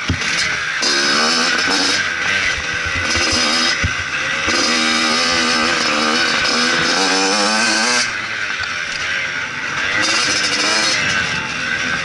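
Motocross bike engine revving up and down as it is ridden, the pitch rising and falling with the throttle. It is eased off for a few seconds past the middle, then pulls hard again.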